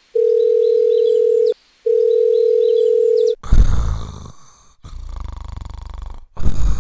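Two long steady beeps of a telephone calling tone, each about a second and a half with a short gap between, then a sudden loud thump and a low rattling rumble.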